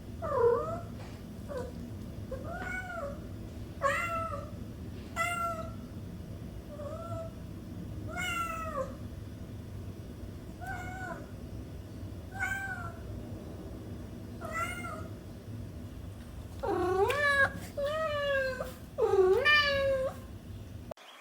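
Kittens meowing over and over, short high-pitched calls about once a second. Near the end come a few louder, longer meows that overlap. A low steady hum runs underneath.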